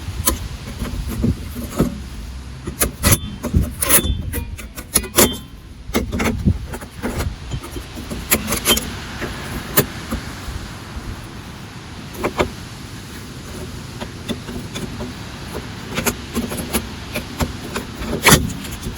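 Scattered metal clinks and knocks, a few ringing briefly, from tools and parts being handled at a car's rear wheel and brake drum.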